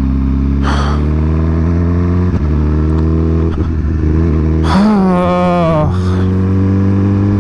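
Suzuki GSX-R1000 inline-four motorcycle engine idling steadily, with a short rise and fall in pitch about five seconds in.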